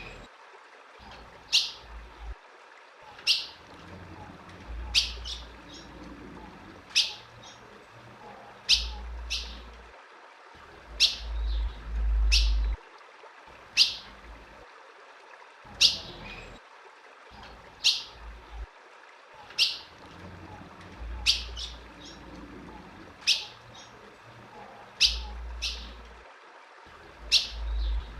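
Female ultramarine grosbeak (azulão) giving short, sharp call notes, each a quick downward sweep, repeated about once every one to two seconds and sometimes doubled. A few stretches of low rumble sit underneath.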